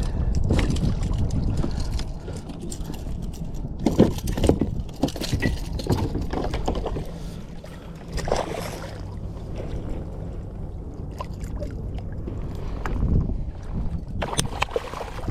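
Wind buffeting the microphone over water moving around a kayak, with several sharp knocks and rattles about four to five seconds in and again near the end.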